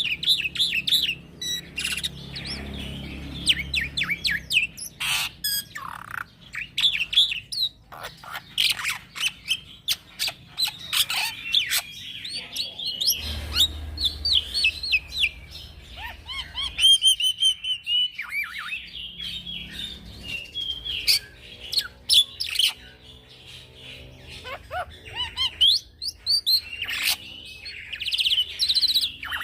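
Young black-winged starling (jalak putih) singing a long, continuous rolling song of rapid chirps, whistles and harsh calls, with hardly a pause.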